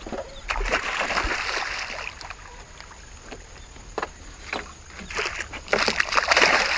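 Water splashing in two spells, the first about half a second in and a louder one from about five seconds in, with scattered sharp slaps: a hooked seatrout thrashing at the surface beside the boat as it is played in.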